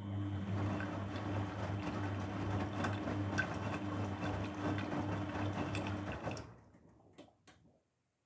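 Grundig washing machine running mid-cycle: a steady low hum with rattling and swishing that stops about six seconds in, then dies away with a few clicks.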